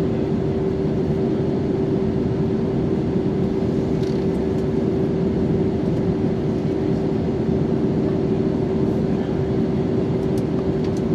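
Airbus A320neo in flight: a steady rush of engine and air noise with a constant hum tone running through it, unchanging throughout.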